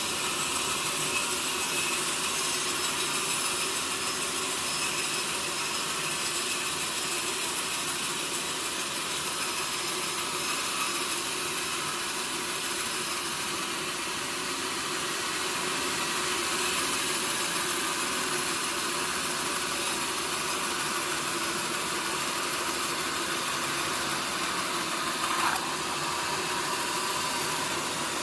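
Sawmill saw running steadily as it cuts through mahogany. There is a brief sharper sound about 25 seconds in.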